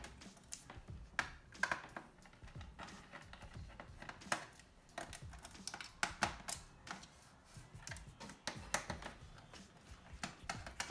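Irregular light clicks and taps of a small screwdriver and screws against a PS4 Slim's plastic casing and parts while screws are being removed during disassembly.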